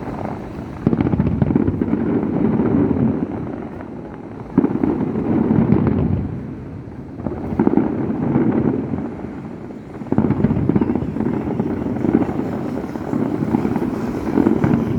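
Aerial firework shells bursting overhead: a sudden boom every few seconds, each followed by a low rolling rumble that dies away, with the booms coming closer together near the end.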